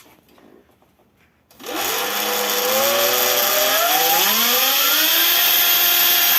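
Electric dirt bike's motor and chain drive spinning the raised rear wheel up to speed: a whine that starts suddenly about one and a half seconds in, rises in pitch and then holds steady. No brake squeak is heard with the wheel spinning free in the air; the squeak shows only under load on dirt.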